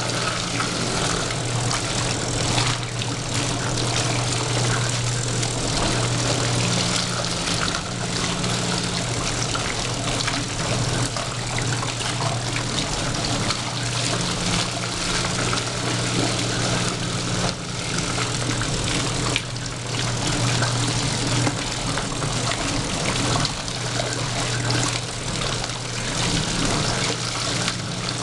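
1973 Fridgette twin-tub washer agitating a load: a steady electric motor hum under the churning and splashing of water stirred by the offset impeller in the bottom of the wash tub. The built-in pump runs with the wash motor and squirts water back into the tub.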